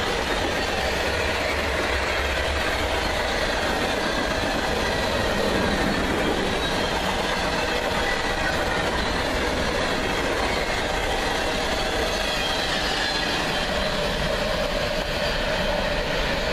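Freight cars of a CSX freight train, hoppers, covered hoppers and boxcars, rolling past close by: a steady noise of steel wheels running on the rails.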